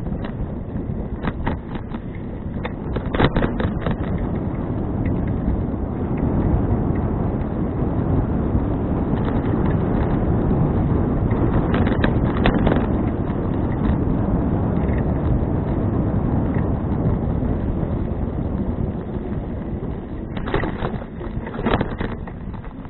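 Wind buffeting the microphone of a bicycle-mounted action camera during a ride, a steady low rumble. Clusters of sharp rattles and knocks come a couple of seconds in, about halfway, and again near the end.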